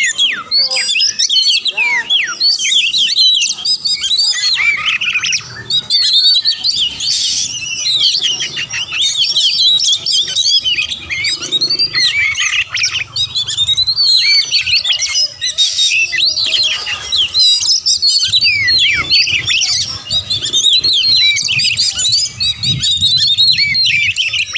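Oriental magpie-robin (kacer) singing fast and without pause: a dense run of quick, varied whistles, chirps and harsher notes.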